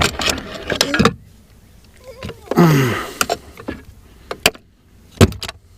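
Irregular clicks and clatter of hand tools and small parts being handled while a boat remote-control handle is taken apart: a quick run of clicks in the first second, then a few sharp single clicks near the end.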